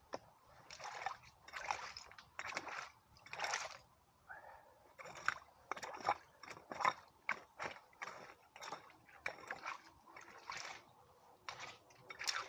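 Repeated splashing and sloshing in shallow water and wet mud as a spring hole is dug out, in irregular strokes about one or two a second with occasional sharp scrapes or clicks.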